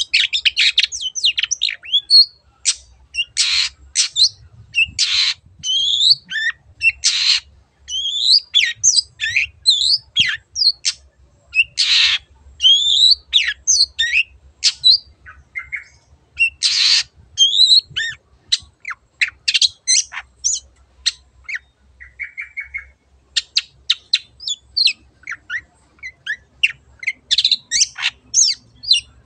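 Long-tailed shrike singing a rapid, varied song of quick chirps and whistles, broken every few seconds by harsh rasping squawks, with a short buzzy trill a little past the middle.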